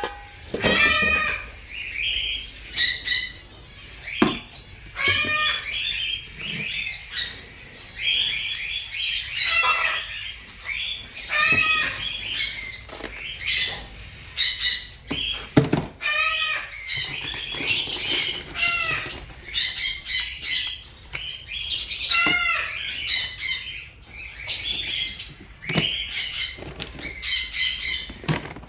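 Parrots squawking and chirping: a steady run of loud, short, shrill calls, one after another every second or so.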